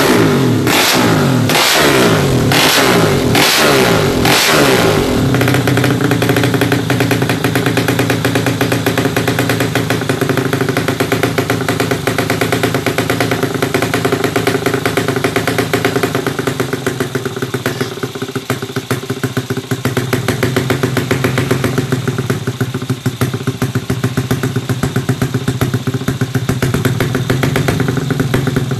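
Two-stroke underbone drag bike with a JRM racing exhaust, revved in a run of quick throttle blips, then settling to a steady idle.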